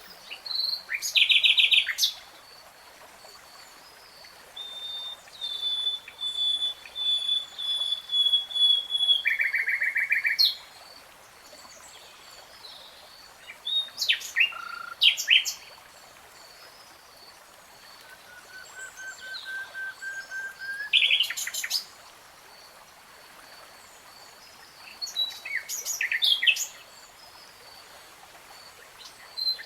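A nightingale singing in separate phrases with pauses between: quick trills, a long level whistled note, and a run of repeated notes that swells in loudness before breaking into a trill. A faint, even, high ticking runs underneath.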